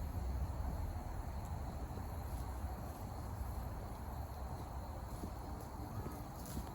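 Steady outdoor background: a low rumble with a faint, continuous high insect chirring over it.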